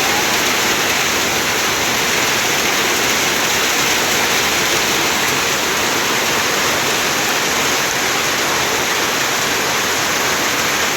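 A steady, loud rush of water.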